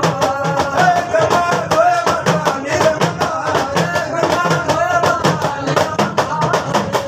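Rajasthani devotional folk music: a fast, even percussion beat of about four to five strikes a second under a wavering melody line.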